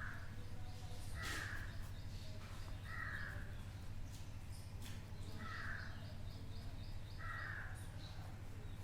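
A bird calling four times, spaced about one and a half to two and a half seconds apart, over a steady low hum.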